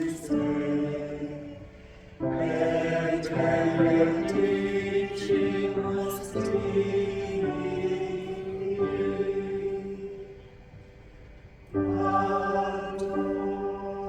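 Church choir singing a slow hymn in long held chords, phrase by phrase. It dies away twice and begins a new phrase each time.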